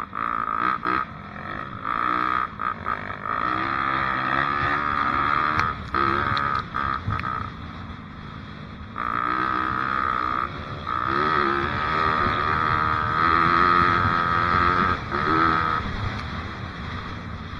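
Dirt bike engine revving up and down as it is ridden, the throttle opening and closing over and over, with a lull around the middle before it pulls hard again.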